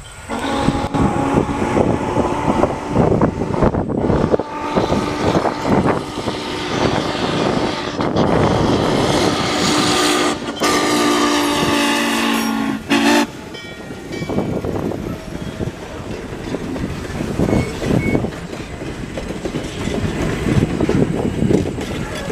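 Train running past with the rumble and knock of its wheels, and a long blast of its whistle in the middle that stops abruptly.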